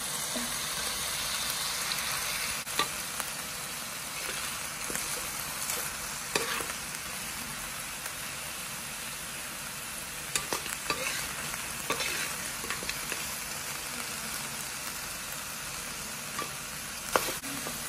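Meat and ginger sizzling in a wok, with the metal spatula scraping and clicking against the pan now and then as it is stirred.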